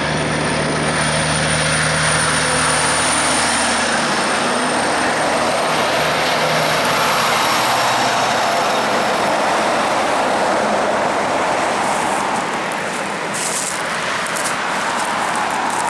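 Heavy road vehicle passing close by: a steady rush of tyre and engine noise, with a low engine hum that fades out about four seconds in.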